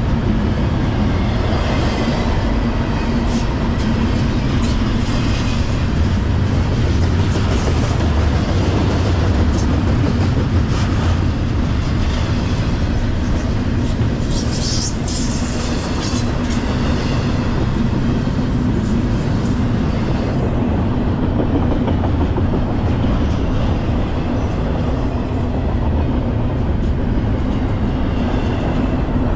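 Double-stack intermodal well cars of a freight train rolling past at speed: a steady rumble of steel wheels on rail with clicking over the rail joints, and a brief high-pitched noise about halfway through.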